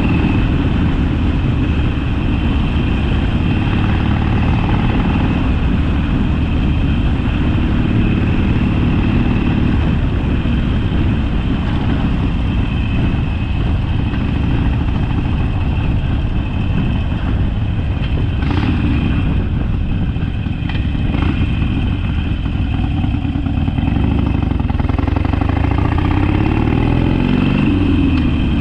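Harley-Davidson Sportster's V-twin engine running as the motorcycle rides along the road. The engine note rises and falls a few seconds before the end as the revs change.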